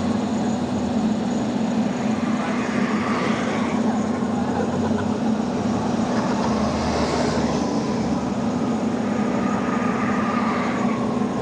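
Heavy diesel engine running steadily with a constant low hum. A rush of higher noise swells and fades a few times.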